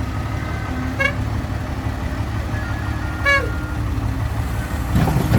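Heavy diesel engines of an excavator and dump truck running steadily, with two short horn toots, one about a second in and one a little after three seconds. A brief clatter near the end.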